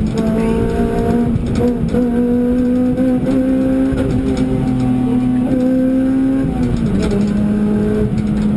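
A car's engine heard from inside the cabin, running hard at speed on track. Its steady drone climbs slowly in pitch, then drops sharply about six and a half seconds in and carries on at the lower pitch.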